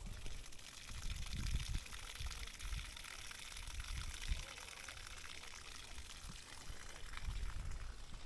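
Running water, a steady splashing hiss that grows louder and then fades near the end as it is walked past, with low footstep thuds underneath.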